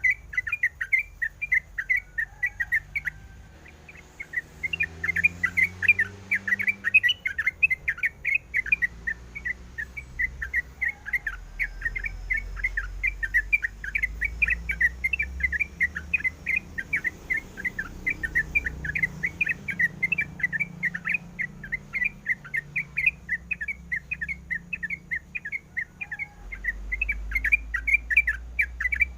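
Yellow-vented bulbul (trucukan) singing energetically: a fast, unbroken run of short chirping notes, several a second, pausing briefly about three seconds in.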